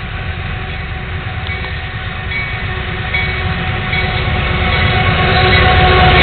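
A GE AC4400CW diesel locomotive leads a freight train that is approaching. The engine and train rumble grows steadily louder.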